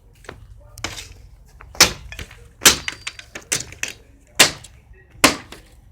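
Wood cracking and snapping at a campfire: a string of sharp, loud cracks, roughly one a second, with a brief decay after each.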